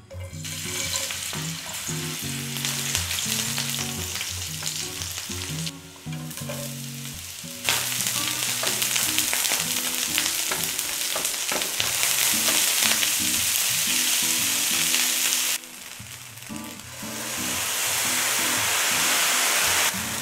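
Green onion, then egg noodles, sizzling in hot oil in a frying pan while being stirred. The sizzle starts as the green onion drops into the oil and fades briefly twice before coming back strong.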